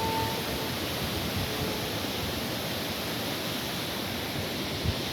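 Steady rushing of water falling at a waterfall, with a brief low thump near the end.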